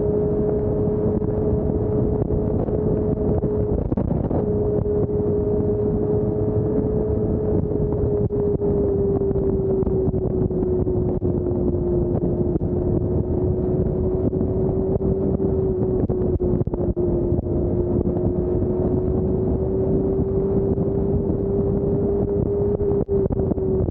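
Motorcycle cruising at a steady highway speed: a steady engine hum under heavy wind and road rush on the camera microphone. The hum's pitch sags slightly partway through and again near the end, as the speed eases off a little.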